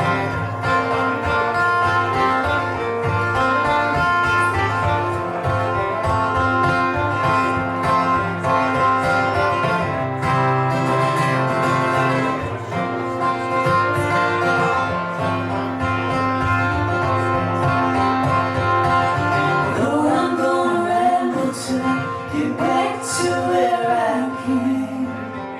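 Live band playing an instrumental passage of a country-blues song, led by guitar over a steady bass. About twenty seconds in, a lead line with bending, wavering notes comes in.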